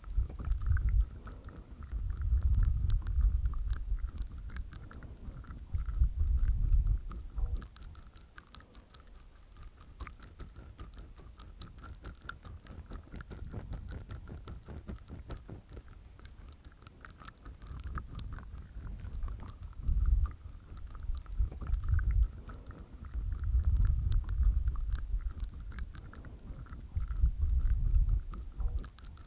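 Close-miked mouth sounds made inside the mouth with tongue and teeth: rapid, wet clicks and smacks, with deeper, louder bursts every few seconds.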